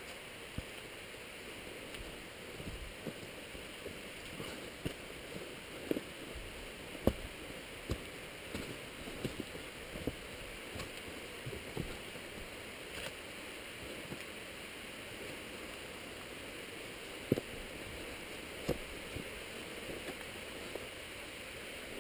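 Steady rush of flowing water, with scattered irregular knocks and scuffs on top, the loudest about seven seconds in and two near the end.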